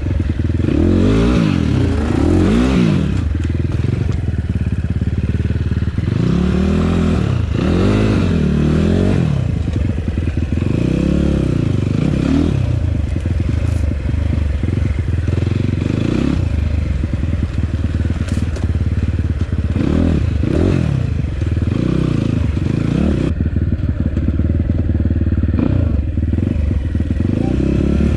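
Enduro motorcycle engine revving in repeated throttle bursts, the pitch rising and falling again every second or two, over a steady low idle.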